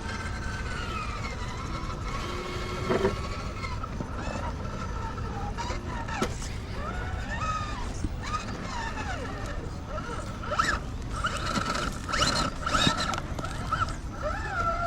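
Small electric motors of RC rock crawler trucks whining, the pitch rising and falling with the throttle, with a few sharp knocks, busiest in the second half.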